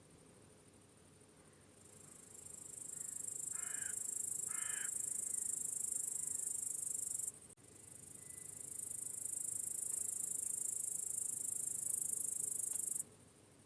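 Crickets chirring in a shrill, high, continuous trill that swells in, cuts off suddenly, then swells and cuts off again. Two short harsh bird calls sound about a second apart near the start of the first stretch.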